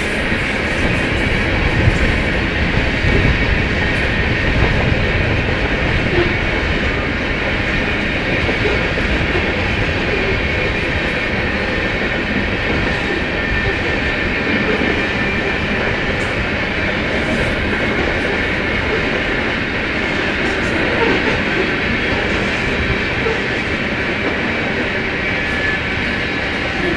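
BNSF freight train of covered hopper cars rolling past, its wheels running steadily on the rails.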